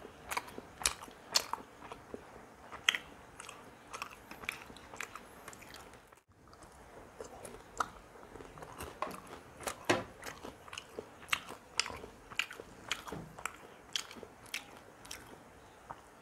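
Close-miked eating sounds: a person chewing and biting into jalebi and chilli chicken with roti, with many short, sharp crunchy clicks and a brief pause about six seconds in.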